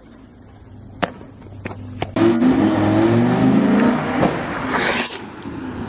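Lamborghini Huracán's V10 engine revving as the car accelerates, its pitch rising steadily for about two seconds, after a few faint clicks. A short loud burst of noise follows near the end.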